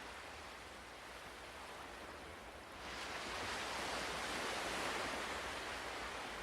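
Ocean waves on a shore: a steady wash of surf, with a wave breaking and swelling about three seconds in, then slowly ebbing.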